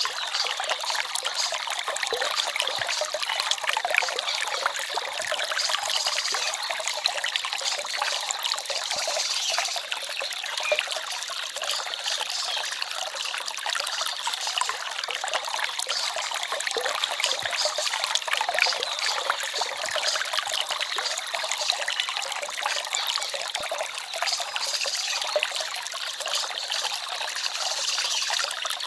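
Small stream trickling and babbling steadily, a continuous splashing water sound with little low rumble.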